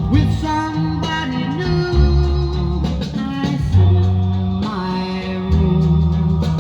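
A song with a singing voice and guitar over a bass line that changes note about once a second, played from a vinyl record on a Garrard Synchro-Lab 95B turntable.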